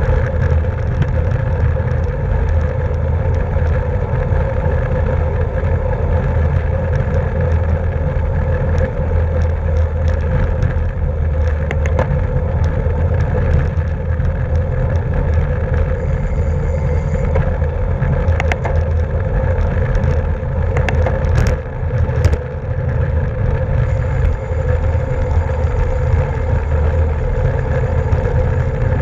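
Racing bicycle on the move: steady wind rumble on the microphone over tyre and drivetrain noise, with a few sharp clicks about two-thirds of the way through.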